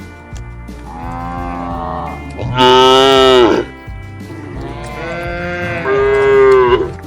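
Cattle mooing: three long, drawn-out moos, the middle one the loudest.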